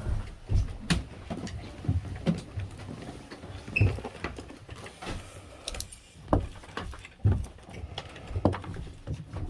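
Scattered knocks and clicks of equipment and objects being handled and moved about, roughly once a second, with a few louder bumps partway through.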